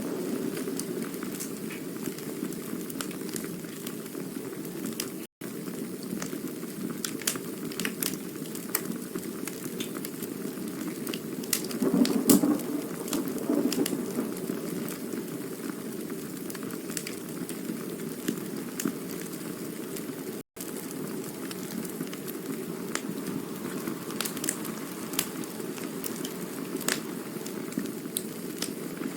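Campfire burning: a steady rushing hiss of flame with frequent sharp crackles and pops of burning wood, swelling briefly about twelve seconds in. The sound drops out for an instant twice.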